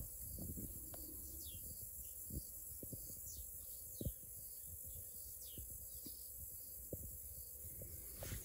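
Steady high-pitched chorus of insects, with a few short falling chirps over it and some faint light knocks.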